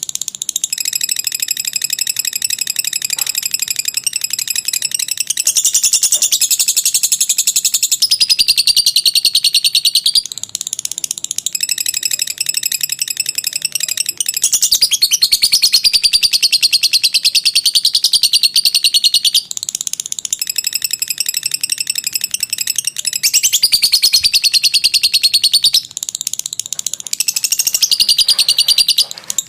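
Lovebird ngekek: a long, rapid, high-pitched chattering trill delivered in phrases of several seconds, each broken off by a brief pause before the next begins.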